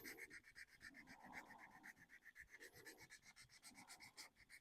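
Faint, quick, even rubbing of 400-grit wet sandpaper on a painted 3D-printed plastic RC car body, scuffing through the thin top coat of paint to weather it.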